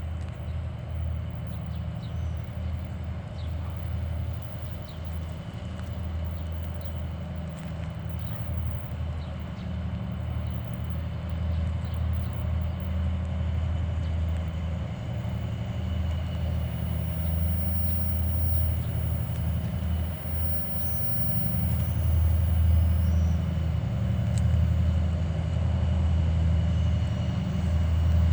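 2TE10UT diesel locomotive's 10D100 two-stroke opposed-piston diesel working under load, hauling a freight train up a grade: a deep pulsing engine drone with a steady high turbocharger whistle above it, growing gradually louder.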